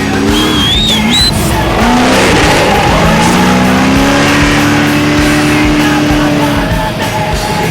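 Trophy truck engine at high revs, its pitch climbing and then held high for several seconds before it stops near the end, with music underneath.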